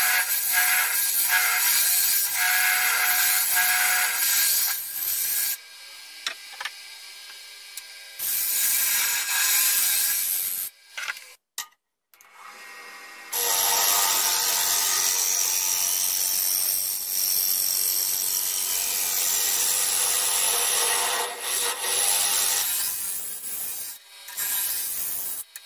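Carbide-tipped turning tool cutting a spinning chestnut wood bowl on a wood lathe, a steady hissing scrape of wood shavings. The cutting eases off about six seconds in, nearly stops around eleven to thirteen seconds in, then resumes.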